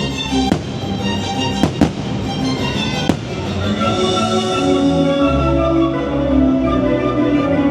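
Orchestral holiday show music with fireworks bursting over it: four sharp bangs in the first three seconds, two of them close together, then the music plays on alone.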